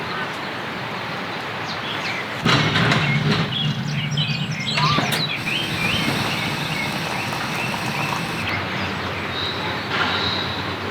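Steady outdoor noise with birds chirping now and then; a low hum comes in suddenly about two and a half seconds in.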